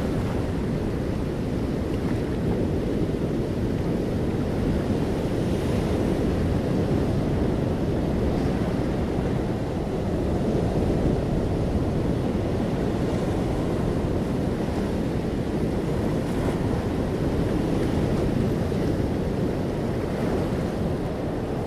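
Sea waves washing onto the shore, a steady rush of surf mixed with wind buffeting the microphone.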